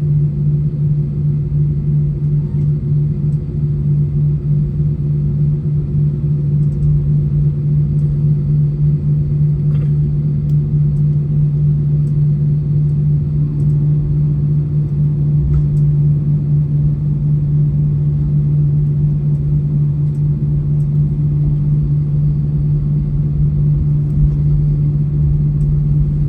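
Cabin noise inside an Airbus A320 rolling on the ground after landing: a steady low rumble with a constant engine drone, unchanging throughout.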